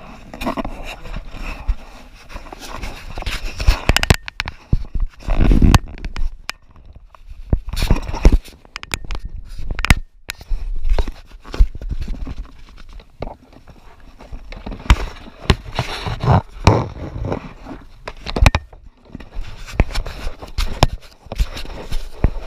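Irregular scraping, knocking and rustling close to the microphone, the handling noise of a camera being moved about and bumped against a kayak.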